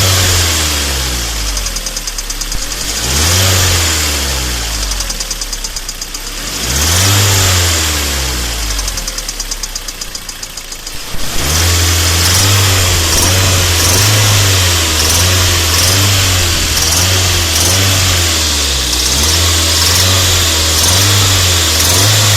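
KIA Sportage 3 engine revved in three short blips, then held at a steady raised speed from about 11 seconds in. Under the engine note runs a rapid, even ticking, the engine knock the owner is showing.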